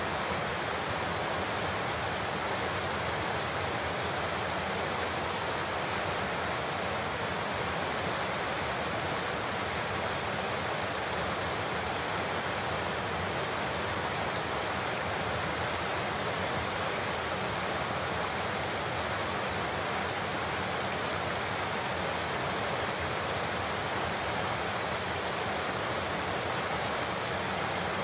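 Large waterfall pouring steadily, a dense even rush of falling water with no breaks.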